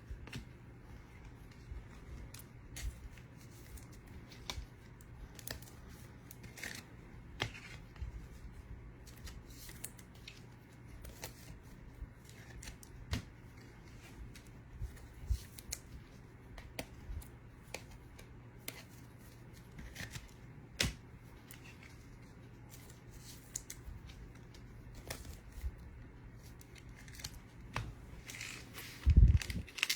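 Faint scattered clicks and soft taps of trading cards and their packs being handled, over a steady low hum. A dull thump near the end.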